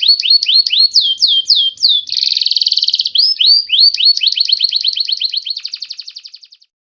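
White-rumped shama calling: fast buzzy trills alternating with runs of swooping slurred whistles, the last trill fading away shortly before the end.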